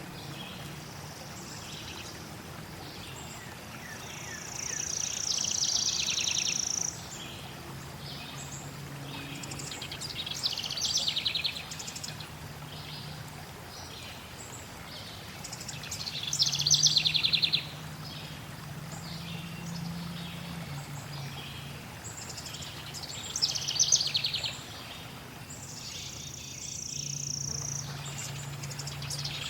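Songbirds singing in recurring bursts of rapid, high trilled phrases every few seconds, over a steady rush of flowing water.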